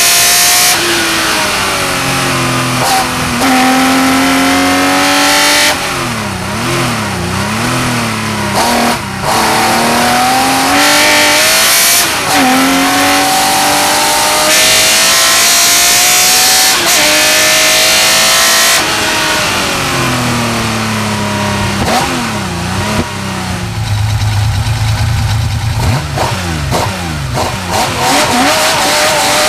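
Porsche 911 Carrera RSR's flat-six racing engine heard from on board, revving hard up through the gears with repeated drops in pitch at each upshift. Several times it falls away with quick throttle blips on downshifts into corners, and there is a slower, lower-revving stretch near the end.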